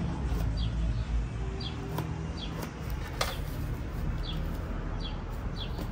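A bird repeating a short, high, down-sliding chirp about once a second, with a few sharp clicks from cardboard boxes being handled about two and three seconds in.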